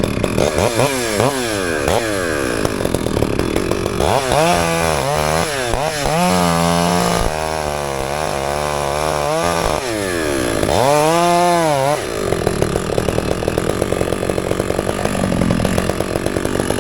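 Two-stroke chainsaw cutting, its engine revving up and down repeatedly through the cut, then dropping near the end to a lower, faster-ticking run.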